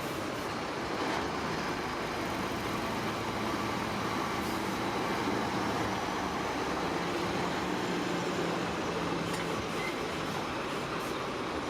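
Heavy diesel construction machinery running steadily, with a low engine drone under a wash of mechanical noise.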